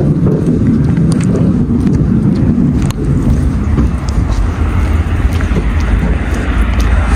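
DAF XF 510 truck's six-cylinder diesel engine running as the truck drives, heard as a steady low engine and road rumble, with a few faint ticks.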